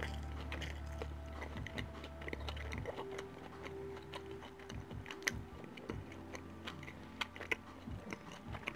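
A person chewing food close to the microphone with the mouth closed: a run of small, irregular wet clicks and smacks.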